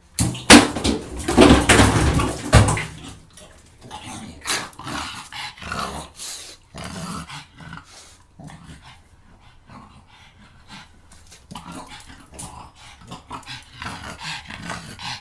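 A dog growling and barking, loud in the first three seconds, then quieter and broken into short growls.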